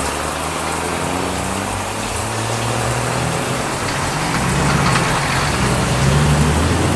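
Vehicle engine sound effect, a low uneven hum under a steady rain-like hiss, growing slightly louder toward the end.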